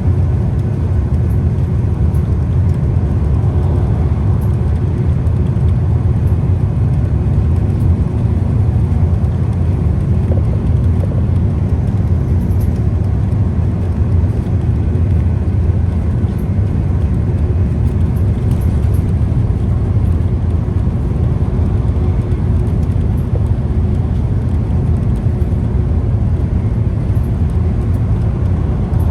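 Scania CK320UB Citywide city bus running at a steady pace: a constant low engine and drivetrain drone with a steady hum over road noise.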